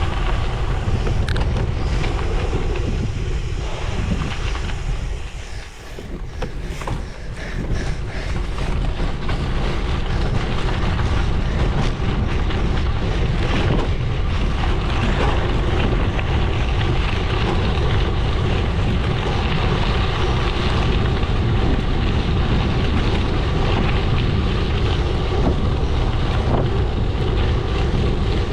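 Gravel bike tyres rolling over a gravel road, with wind buffeting the microphone. The noise dips briefly about five seconds in, then comes back steady.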